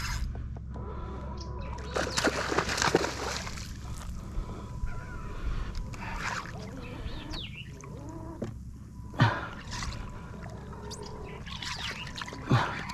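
Water splashing and trickling against a fishing kayak, with a few sharp knocks on the hull, the loudest two in the second half.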